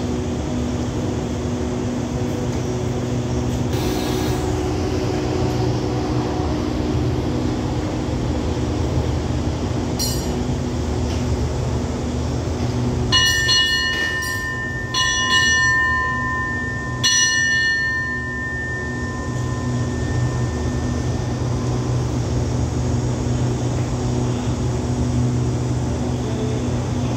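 Steady low hum of a standing passenger train's engines at the platform. About halfway through, a bell is struck in three bursts, each a couple of seconds apart, and the last one rings on for a few seconds as it dies away.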